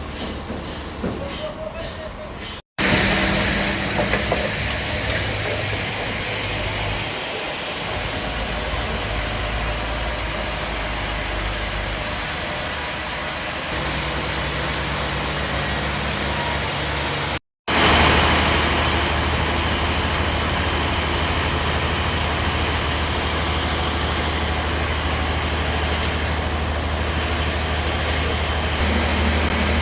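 Bandsaw sawmill running: a steady machine drone with a constant hiss from the blade. The sound cuts out briefly twice.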